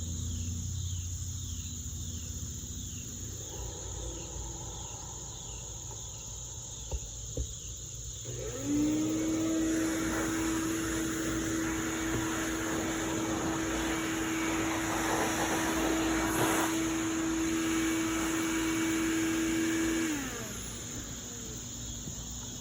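A small electric motor with a steady whine switches on about nine seconds in, runs at a constant speed with a rush of air for about eleven seconds, then winds down, as when an air tool clears bugs and debris out of a camper roof vent and screen. Crickets chirp under it.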